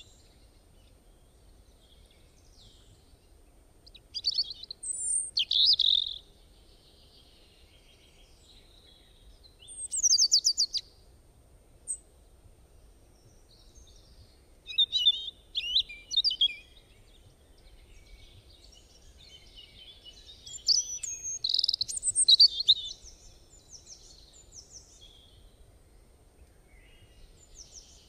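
Small birds singing, in separate bursts of quick high chirps and trills a few seconds apart.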